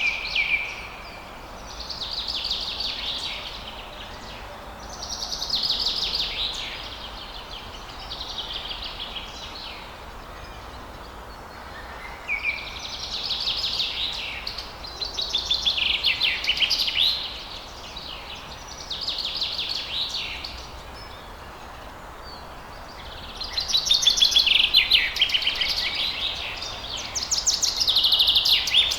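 Songbirds singing at dawn. High phrases of quick, trilled notes, each a second or two long, come every few seconds over a steady background hiss.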